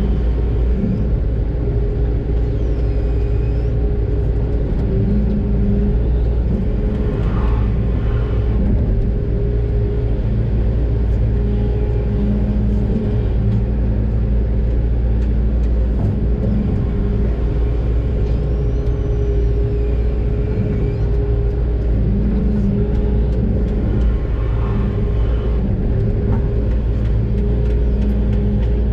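Doosan DX600 excavator's diesel engine running steadily, a deep continuous rumble with a hum that swells and fades every few seconds as the machine works. A faint high whistle glides up and down twice.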